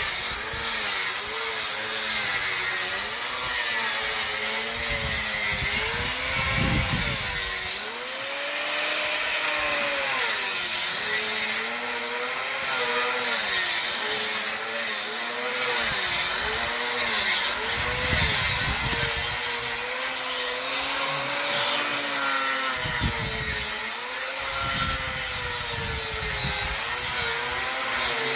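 Power sander running on wooden hanok rafters, grinding off thick hard paint. Its motor pitch dips and rises as the load changes, over a steady hiss of abrasive on wood.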